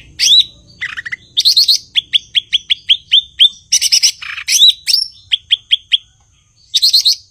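Cucak ijo (green leafbird) singing: fast runs of short upward-flicking whistled notes, about three to four a second, mixed with loud, high chattering bursts, with a brief pause near the end.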